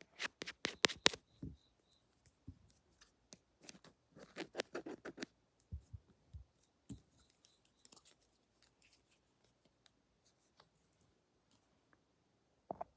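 Scissors snipping in two quick runs of sharp clicks in the first five seconds, then scattered lighter clicks and scratches.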